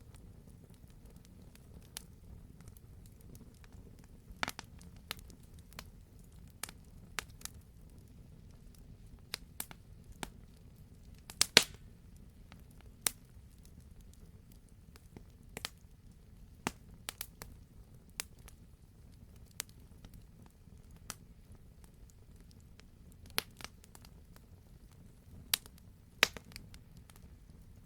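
Wood fire crackling: sharp pops and snaps at irregular intervals over a low steady rumble, with the loudest pops about eleven seconds in and again near the end.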